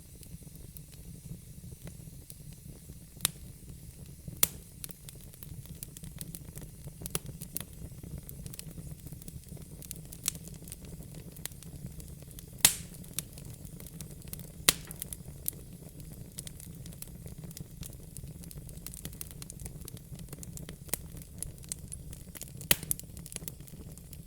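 Wood fire in a fire pit crackling: irregular sharp pops and snaps over a steady low rumble and faint hiss, the loudest pop about halfway through.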